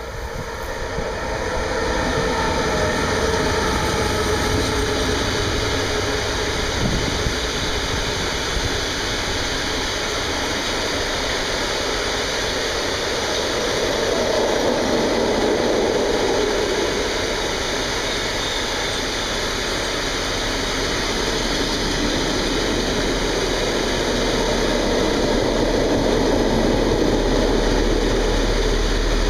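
Two Class 189 electric locomotives pass with a whine from their traction equipment in the first several seconds. A long train of ore hopper wagons follows, rolling past with steady wheel-on-rail noise. Near the end, a Class 225 diesel helper locomotive at the rear approaches with a low engine rumble that grows louder.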